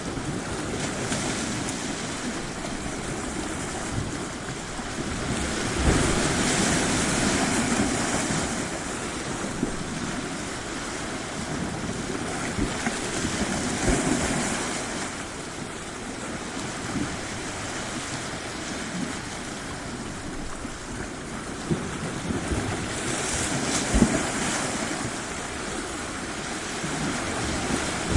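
Sea surf washing onto a shore: a steady rush of water that swells and ebbs as waves come in every eight to ten seconds, one wave breaking sharply near the end.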